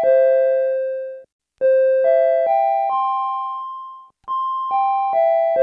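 Electronic chime music: bell-like tones play a four-note major arpeggio that falls, rises, then falls again. Each note is struck and rings away, with short silences between the phrases.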